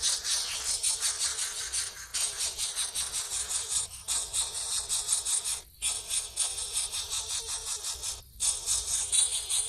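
Nestling birds begging: a dense, rapid, high-pitched rattling chatter that breaks off briefly twice.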